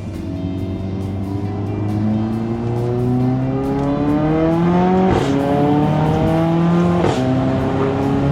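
Mercedes-AMG A45's turbocharged four-cylinder with a Milltek exhaust accelerating hard: the engine note climbs gradually, then two quick upshifts about five and seven seconds in, each marked by a sharp crack from the exhaust and a drop in pitch before it climbs again.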